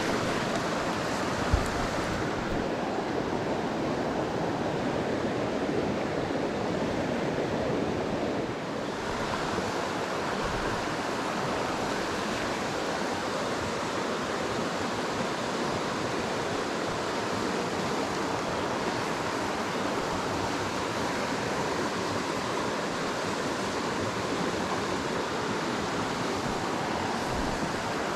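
Mountain stream water rushing steadily over rocks, with one brief knock about a second and a half in.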